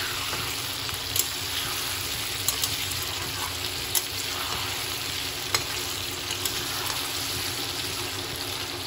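Potato and pumpkin chunks frying in oil in a kadai with a steady sizzle, while a metal spatula stirs them, scraping and giving a few sharp clicks against the pan.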